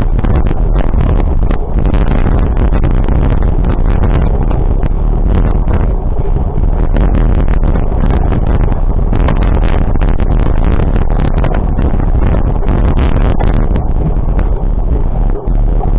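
Loud, steady rumbling noise with wind buffeting the microphone, crackling unevenly throughout.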